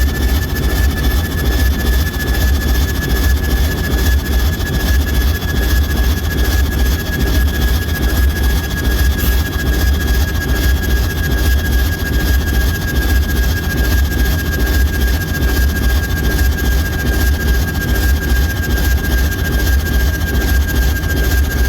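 ALCO S4 diesel locomotive's turbocharged six-cylinder 539T prime mover running steadily, with a heavy low rumble. A high whine runs over it and sinks slightly in pitch.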